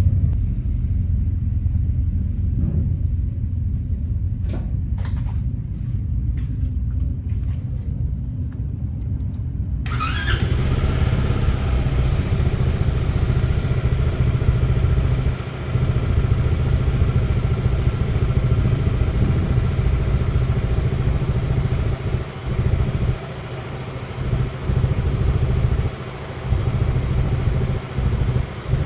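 Scooter engine running with a steady low rumble, freshly refilled after its oil change. A few faint clicks come in the first ten seconds. About ten seconds in, a louder, fuller noise joins, and the level drops briefly several times near the end.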